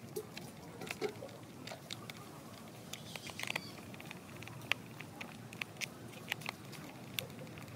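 Small screws being tightened into a plastic toy jeep body: irregular light clicks and scratches of the screwdriver and plastic parts.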